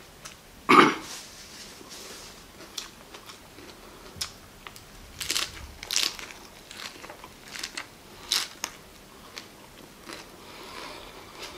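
A person biting and chewing raw agati flowers dipped in chili salt: scattered crisp crunches and wet mouth sounds, close up. One louder short thump about a second in.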